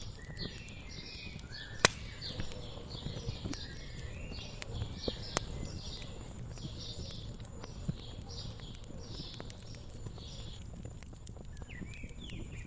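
Wood fire crackling steadily, with a sharp pop about two seconds in and another about five seconds in, while birds chirp over and over in the background.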